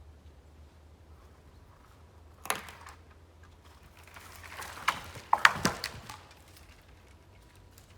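A few sharp knocks and clatters: a single knock about two and a half seconds in, then a quick cluster of knocks around five seconds, the loudest near five and a half seconds.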